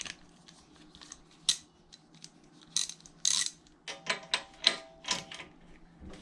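Hand ratchet clicking in short, irregular strokes as it tightens the bolts holding the backing plate on a Predator 212 engine, with a quicker run of metallic clicks and clinks a few seconds in.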